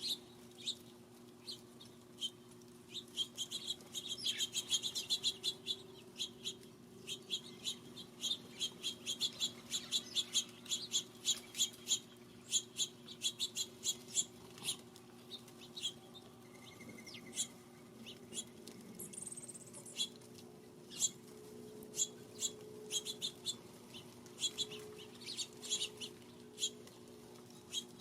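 Small birds at a feeder chirping, many short quick chirps in irregular runs throughout, over a steady low hum.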